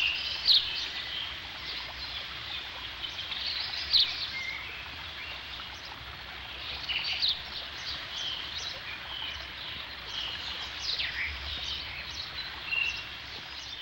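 Birds chirping and calling outdoors in short, high calls scattered throughout, a few sweeping downward, over a steady background hiss.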